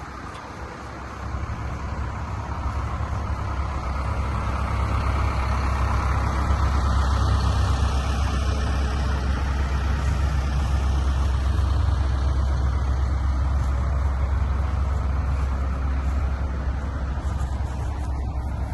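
Diesel engine of a Kobelco SK210LC-10 hydraulic excavator running as a steady low rumble. It grows louder from about a second in and holds there.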